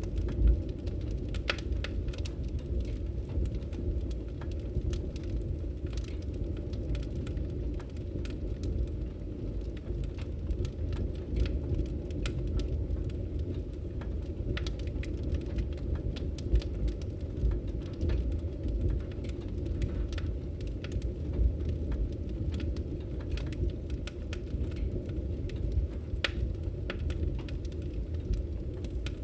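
Wood fire in a fireplace, crackling. There is a steady low rumble under frequent sharp pops and snaps.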